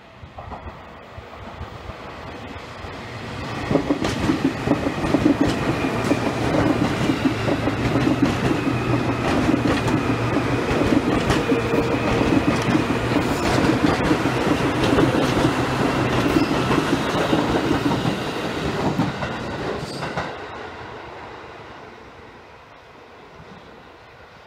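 Seibu Railway New 2000 series electric train approaching and passing close by, its wheels clicking over the rail joints. It swells over the first few seconds, stays loud for about sixteen seconds, then fades as it goes away.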